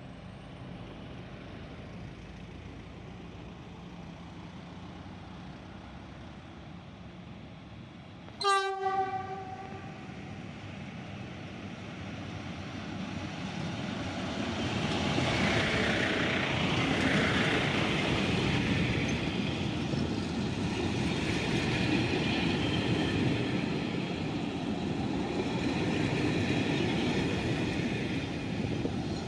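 Passenger train running on jointed single track, heard from a carriage window, with one short blast of the train horn about eight seconds in. After the horn the rolling noise of the wheels grows steadily louder and stays loud.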